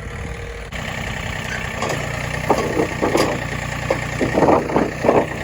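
An engine running steadily at a low hum, with irregular louder rasping surges between about two and five seconds in.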